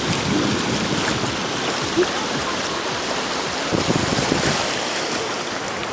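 Surf washing onto a beach, a steady rushing wash of waves.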